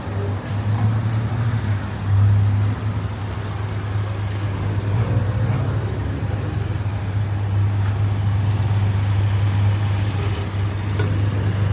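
Street traffic with a steady low engine drone from a motor vehicle running close by.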